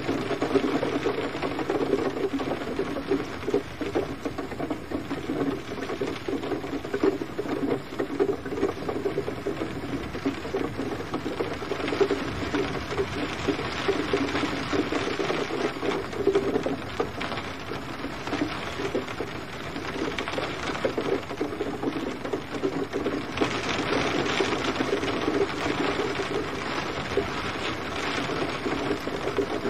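Gentle rain falling steadily, a dense patter of drops over a soft hiss. The hiss turns brighter about 23 seconds in.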